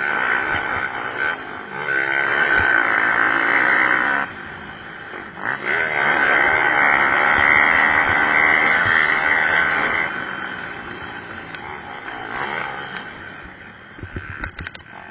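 Pit bike engines revving hard as the bikes race past, the pitch rising and falling with the throttle. It is loud in two stretches, the second starting about six seconds in, then fades off.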